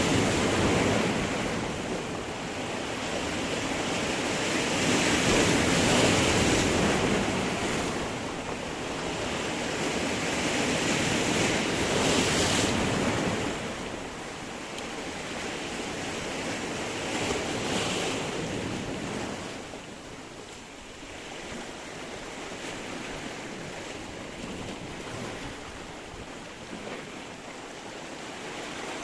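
Sea surf washing against a stony shore: waves break and surge in slow swells, several seconds apart, louder in the first half and softer later.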